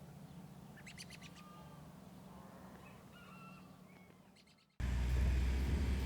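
Several short animal calls and quick chirps over a low steady hum. About four and a half seconds in, the sound cuts suddenly to a much louder low rumbling noise.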